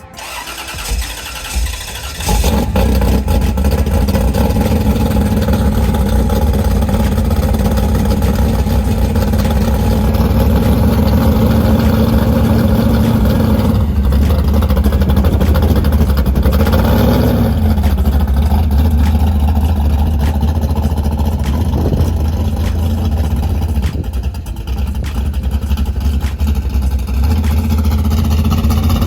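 A vehicle engine starts about two seconds in and then runs loudly and steadily, with a brief rev partway through.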